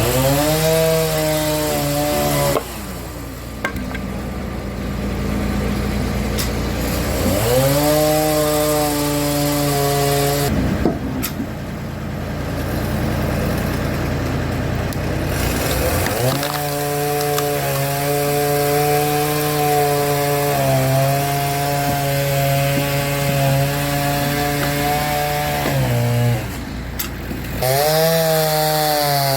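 Tractor-driven log splitter working logs: a pitched mechanical whine rises and holds for several seconds, then drops away, four times over, above the steady running of a David Brown 880 tractor engine.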